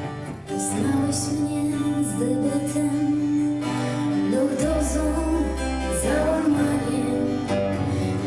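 Live band playing a gentle instrumental passage: guitar and keyboard chords over sustained notes, with a deep bass note in the middle and light high percussion strokes.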